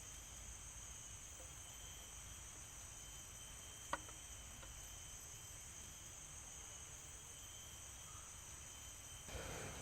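Forest insects, cricket-like, chirring in a steady high-pitched chorus. A single sharp click sounds about four seconds in, and a rustling noise rises near the end.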